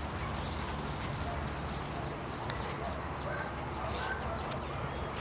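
A cricket trilling: one high, steady, finely pulsing note that never stops. Under it are a few faint short chirps and a low outdoor rumble.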